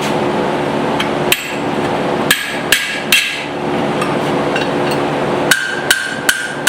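A rounding hammer striking hot steel on an anvil, about nine blows in irregular groups, some leaving a short high ring, over a steady rushing background noise.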